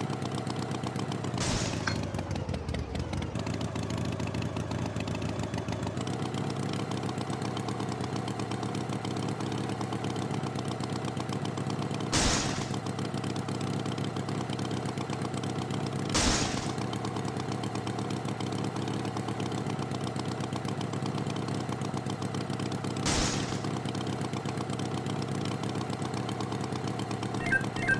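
Tractor engine idling steadily, with four sharp bangs over it and a brief falling whine a couple of seconds in. Rhythmic music starts at the very end.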